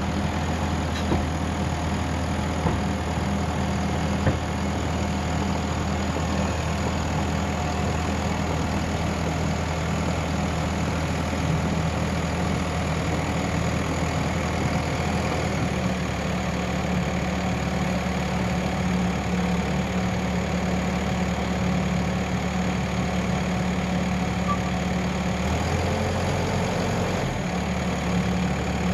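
Heavy diesel engine running steadily at an even speed, with small shifts in tone partway through.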